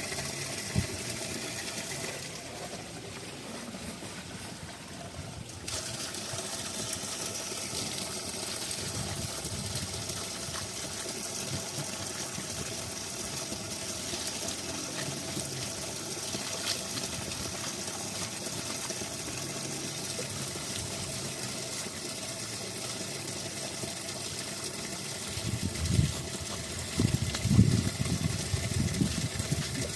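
Steady rushing of water from a mountain spring, with irregular low thuds and knocks starting near the end.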